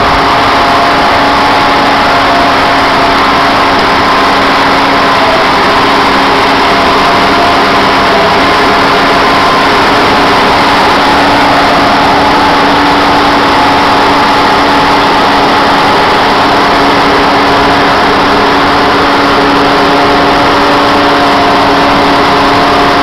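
New Holland TM180 tractor's diesel engine running at a steady speed, loud and even throughout.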